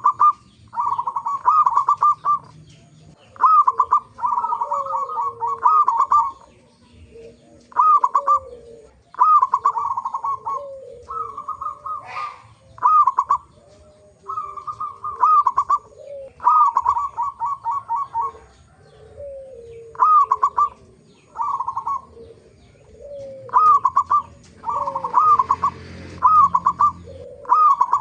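Zebra doves (perkutut) cooing: phrases repeated every second or two, each a short note followed by a quick run of clipped coos, with softer, lower falling coos in between. This is a lure call used to set other zebra doves singing.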